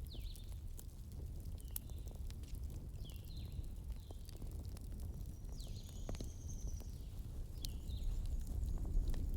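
Wood fire crackling: scattered sharp pops and snaps over a low steady rumble. Short, high, falling chirps repeat about once a second alongside it.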